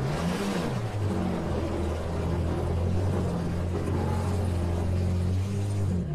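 Demolition-derby minivan engines running, one revving up and back down about half a second in, over a steady low engine drone.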